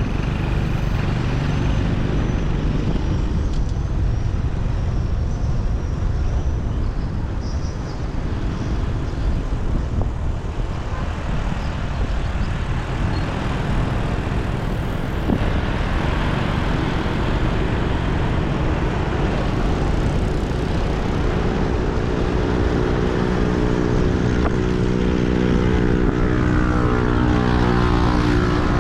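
Motorcycle engine running steadily while riding in city traffic, a low, even drone mixed with road and wind noise. From about two-thirds of the way through, a stronger engine hum with a clear pitch comes in and sweeps downward near the end.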